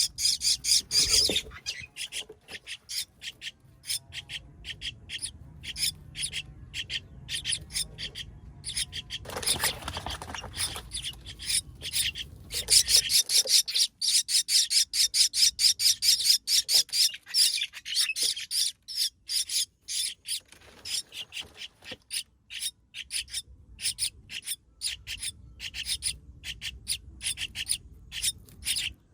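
Baby birds calling from the nest: rapid runs of short, high, raspy chirps, coming in bursts with brief pauses.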